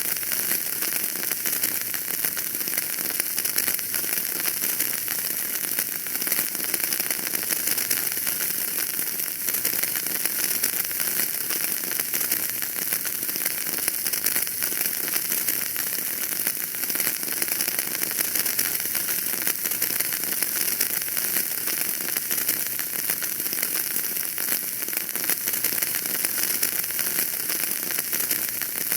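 Wood fire crackling in a fireplace: a steady hiss with many small, quick pops.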